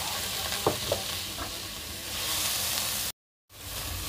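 Ground onion and garlic paste sizzling as it fries in hot oil in a kadhai, stirred and scraped with a wooden spatula. The sound cuts out for a split second about three seconds in.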